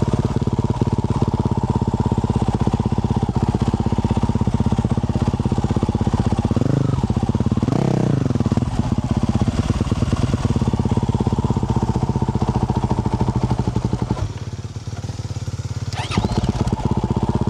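Yamaha YZ450F 450cc single-cylinder four-stroke dirt bike engine with a Yoshimura RS-12 exhaust, running under steady throttle. Its note dips and climbs back twice about seven to eight seconds in, drops to lower revs about fourteen seconds in, and picks up again near the end.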